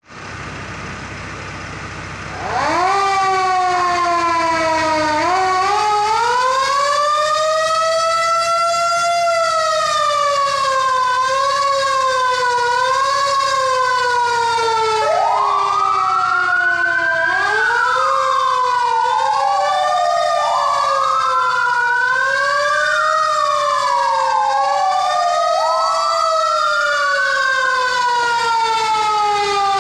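Fire truck siren starting about two and a half seconds in and wailing up and down in long, slow sweeps; from about halfway a second wailing tone overlaps, sweeping up and down faster.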